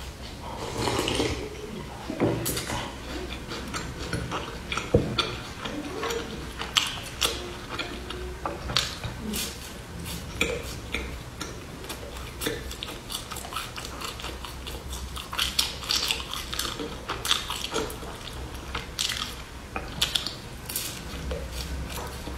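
Close-up crunching and chewing of a hard nut-and-seed brittle bar, with many irregular sharp crackles as it is bitten and broken in the mouth.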